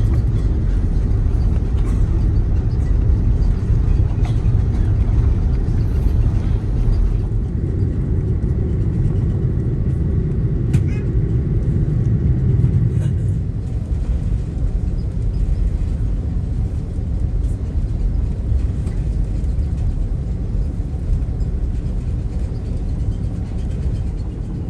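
Airliner cabin noise in an Airbus A330-300 before takeoff: a steady low rumble from the engines at low power and the cabin air, easing slightly about halfway through.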